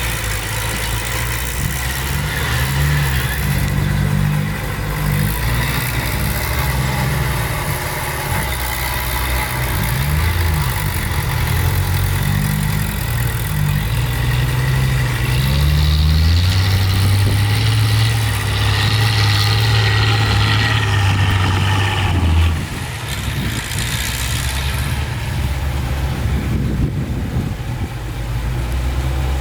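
Heavy diesel engines of dump trucks and a bulldozer running, their pitch rising and falling as they work. A stronger steady engine drone holds for several seconds past the middle, then drops off.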